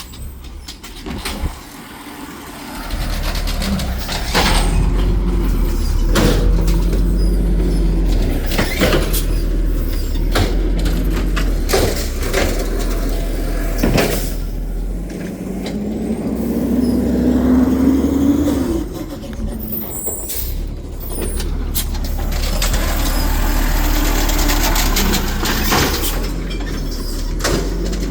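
Garbage truck's diesel engine running with a low rumble, with several sharp knocks and bangs. About halfway through, a tone rises for a few seconds, like the engine or its hydraulics winding up.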